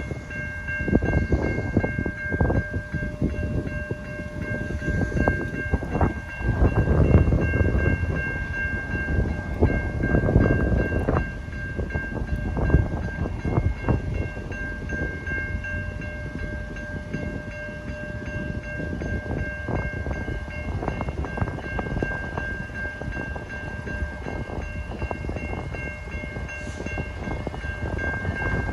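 A passenger train passing over a level crossing: a steady rumble with wheels clattering sharply over the rail joints and crossing, loudest a quarter of the way in. A crossing bell rings steadily throughout.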